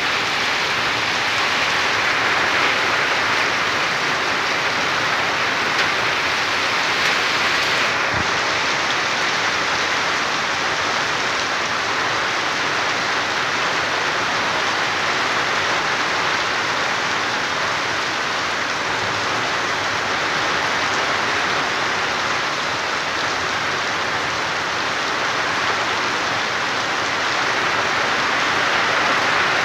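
Heavy rain pouring down steadily, an even, dense hiss that does not let up.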